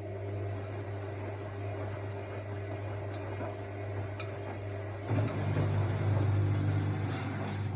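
AEG Lavamat L62850L washing machine running with a steady hum, with a couple of sharp clicks. About five seconds in the hum steps up and grows louder.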